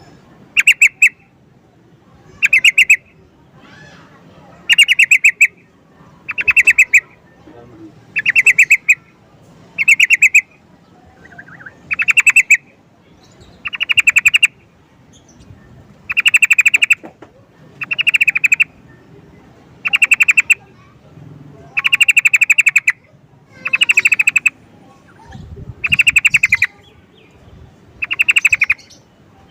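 Yellow-vented bulbul (trucukan) calling: a loud, short burst of rapid chattering notes, repeated at a steady pace about every two seconds.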